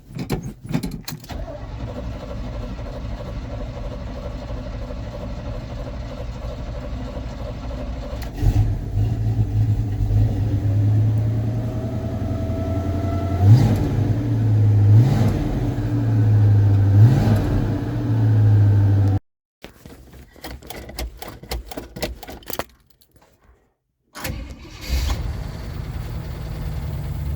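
1978 Chevy K30 pickup's engine starting from cold and running, its idle stepping up about eight seconds in, with three short throttle blips. The sound drops out abruptly twice near the end, then the engine is heard running again.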